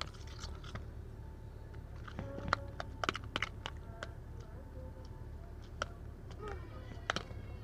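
Homemade glue-and-soap slime being stirred and kneaded, giving irregular sticky, wet clicks and pops.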